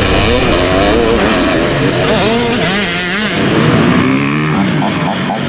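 Motocross motorcycle engines revving, their pitch rising and falling again and again.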